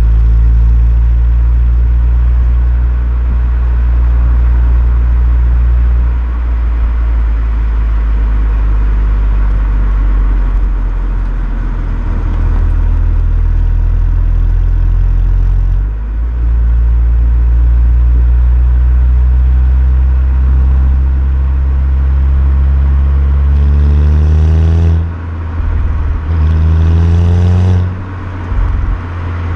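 Volkswagen Golf 6 GTI's 2.0 TSI four-cylinder engine and exhaust while driving: a steady drone for most of the time, with a short dip about halfway through. Near the end come two quick rising revs, each cut off sharply as the manual gearbox is shifted up.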